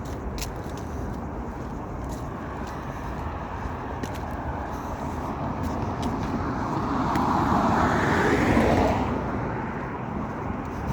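A road vehicle passing by: its tyre and engine noise grows over several seconds, is loudest about eight seconds in, then fades quickly.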